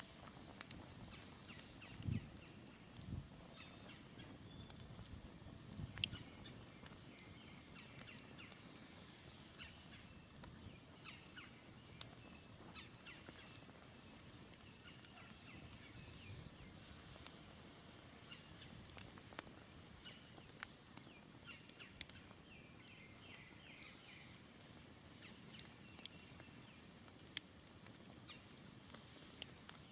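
Smoldering campfire crackling faintly, with sharp pops scattered throughout and a few dull low thumps in the first six seconds. Distant birds call in short chirps, with a quick run of notes a little past the middle.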